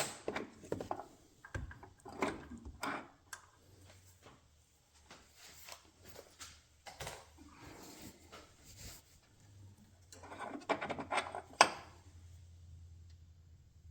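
Scattered clinks, knocks and rattles of hand tools and metal parts being handled during engine mount removal, with a busier run of knocks about ten to twelve seconds in.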